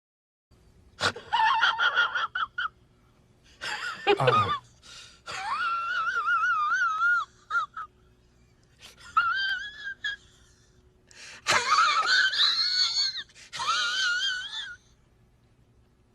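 A high-pitched wheezing sound effect: a run of wavering, squealing wheezes, each one to three seconds long, with short pauses between.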